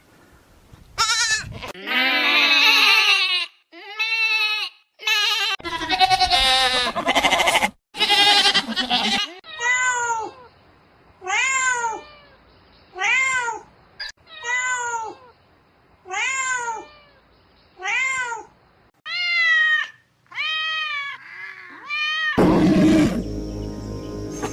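Cat meowing: a few long drawn-out meows, then a steady run of short meows about every second and a half. Near the end a different, noisier sound takes over.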